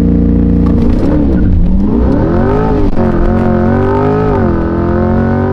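C8 Corvette's 6.2-litre V8 through a stainless cat-back exhaust at full throttle in a 0-60 launch. The revs are held steady for about a second, then waver down and up as the rear tires spin badly in first gear, then climb through the gears, with the pitch dropping at each upshift, about three seconds in and again near the end.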